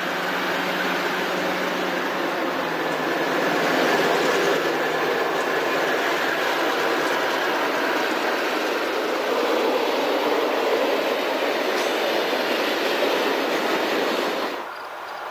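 Conrail freight train passing, a long string of open-top freight cars with a steady noise of steel wheels rolling on the rails. The sound drops away suddenly shortly before the end.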